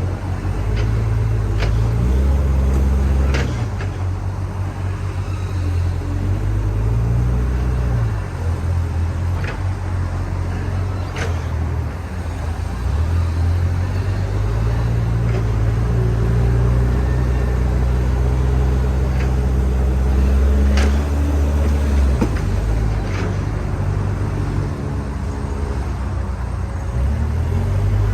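Diesel engine of a JCB backhoe loader running, its pitch rising and falling over and over as it revs up and eases back, with a few sharp knocks.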